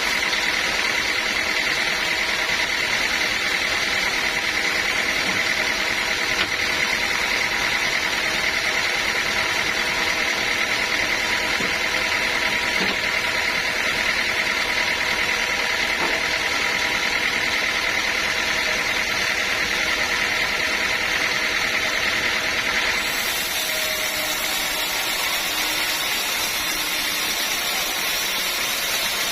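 Sawmill machinery running steadily, with a continuous high whine over the machine noise that stops about three quarters of the way through while the machinery keeps running.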